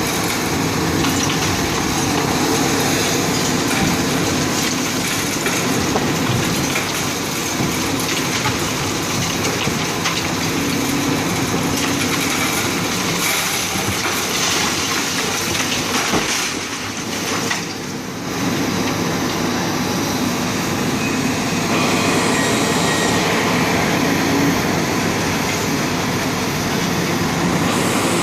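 Demolition of a concrete building: continuous crunching and crackling of concrete and rubble being broken, easing briefly about two-thirds of the way through.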